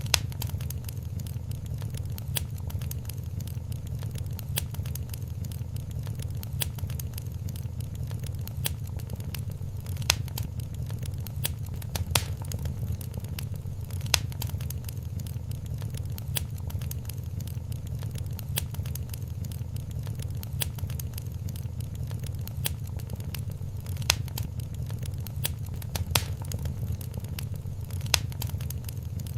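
Wood fire crackling steadily in a fireplace, a low rumble of flames under constant small crackles, with a few sharper pops every couple of seconds.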